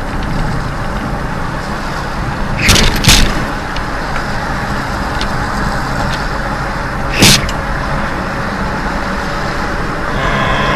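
Steady car running and road noise, broken by short, loud bangs: two close together about three seconds in and one about seven seconds in. A steady horn-like tone starts near the end.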